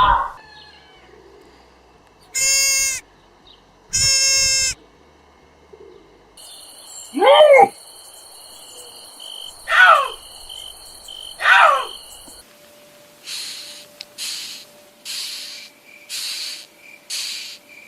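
A series of different animal and bird calls, one clip after another: two short pitched calls, then three falling calls over a steady high trill, then about six short rasping calls in a row.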